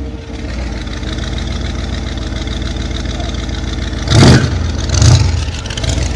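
V8 engine of a chopper trike running steadily while riding, with two brief loud bursts of noise about four and five seconds in.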